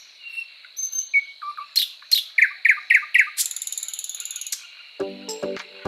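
Birds chirping and calling over a steady high insect drone, including four quick down-slurred notes in a row followed by a buzzy trill. Music comes in about five seconds in.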